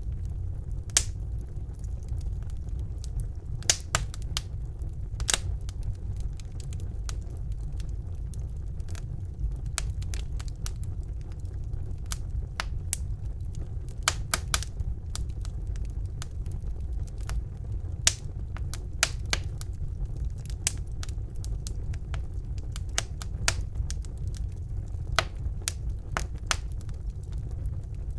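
Wood fire burning in a fireplace: a steady low rumble of the flames with sharp crackles and pops at irregular intervals.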